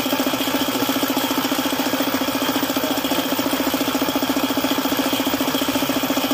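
Suzuki F6A three-cylinder engine running steadily at idle with an even, rapid pulsing. The knock is put down to an oil pump that has stopped working.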